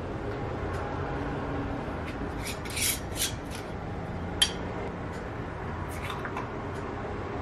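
Kitchen utensils scraping against dishes a few times, with a sharp clink in the middle, over a steady background hum.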